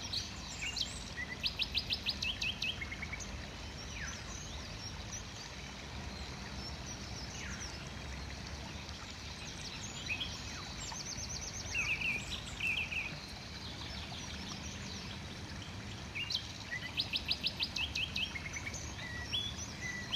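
Birds calling: three bouts of fast, high, repeated notes, one near the start, one midway and one near the end, with scattered short chirps in between, over a steady low background rumble.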